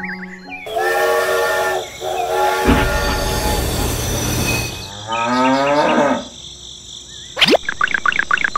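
Added sound effects for a toy train and a cow: a held train horn about a second in, a couple of seconds of hissing, rumbling train running, a cow mooing around the middle, then a quick rising whistle and rapid warbling chirps near the end.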